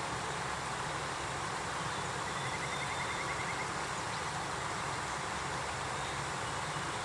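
Steady outdoor background noise, with a faint, rapid chirping for about a second near the middle.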